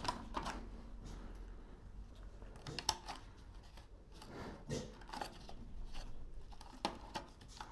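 Scattered light clicks and rustles of something being handled, over a faint low hum.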